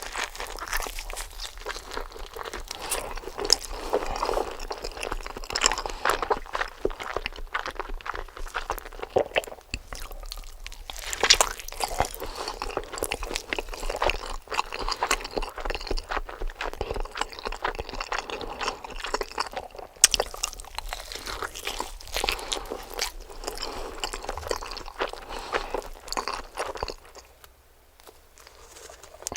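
Close-miked eating: crunchy bites and wet chewing, a dense run of irregular crackles and clicks.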